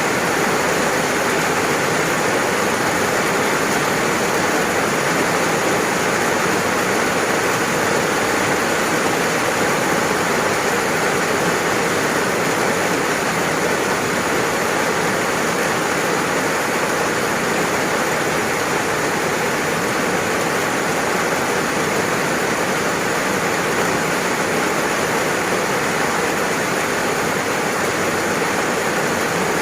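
Steady heavy rain, a dense even hiss of falling water with no breaks or separate drops standing out.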